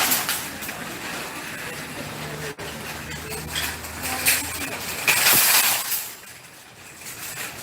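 Metal shopping trolley rattling as it is pushed, then a loud metallic clatter about five seconds in as it is rammed hard into the line of trolleys, a crash loud enough to scare dogs nearby.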